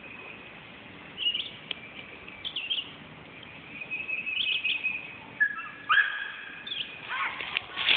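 Birds chirping in woodland: short high chirps about a second apart, with louder calls and sharp noises in the last two and a half seconds.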